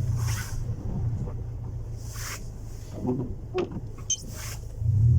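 Honda Civic 1.4i S four-cylinder engine idling through a custom-made exhaust, a steady low drone that grows louder shortly before the end. Short hisses and a few light clicks sit on top of it.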